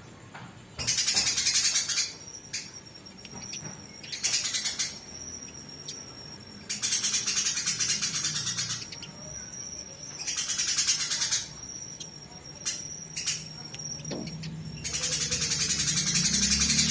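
Eurasian tree sparrows chattering in a fight: harsh, high bursts of rapid chirps about a second long, repeated several times, alternating with a thin, steady high whistle and a few sharp clicks.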